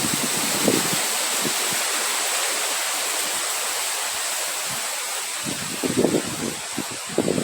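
Steady rushing wind, with gusts buffeting the microphone in low, irregular thumps just after the start and again over the last couple of seconds.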